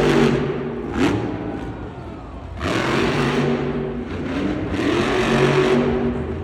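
Monster truck's supercharged V8 revving hard, with a sharp bang about a second in. It eases off around two seconds in, then comes back on full throttle.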